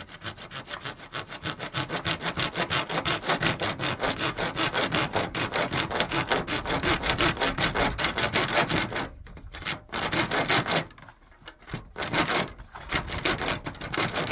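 Hand saw cutting with rapid, even back-and-forth strokes. It pauses briefly about nine seconds in and again around eleven seconds, then saws on.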